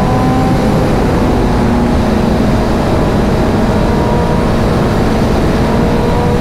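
BMW S1000RR's inline-four engine holding a steady high-speed cruise at about 150 km/h. The engine note stays at a nearly constant pitch under heavy wind rush on the microphone.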